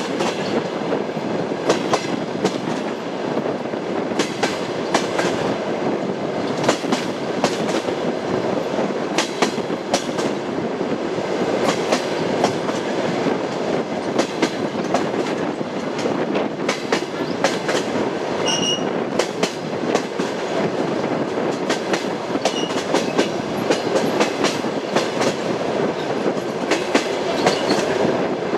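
Train wheels clattering over rail joints in a steady clickety-clack, the knocks coming in regular groups over a continuous rolling rumble. A brief faint high tone sounds about two-thirds of the way through.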